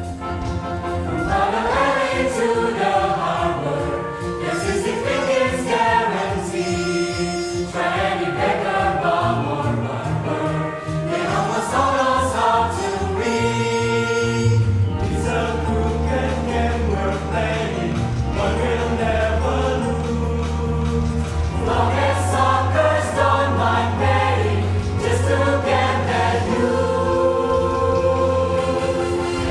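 Mixed choir singing with instrumental accompaniment and a steady low bass line.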